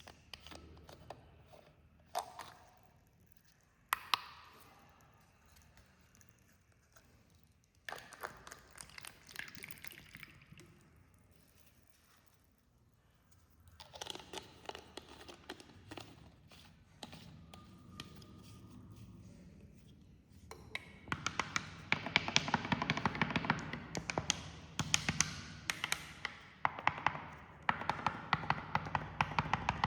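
Cola being poured, fizzing with a dense crackle of popping bubbles, louder over the last third. A couple of sharp taps, such as glass or bottle being set down, come early on.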